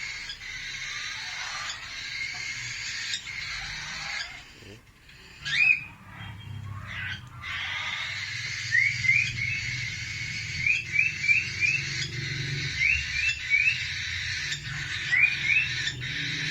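Cockatiel chirping in short rising calls: one or two at about six seconds in, then quick runs of two or three from about nine seconds on, over a steady background chatter.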